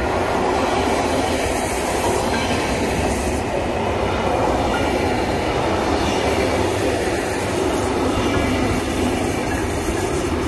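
SNCB electric passenger train passing close by, its coaches rolling past with a steady noise of wheels on the rails.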